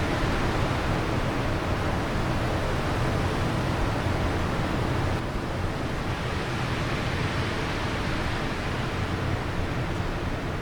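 Steady wind rushing, an even noise heaviest in the low end, easing a little about five seconds in.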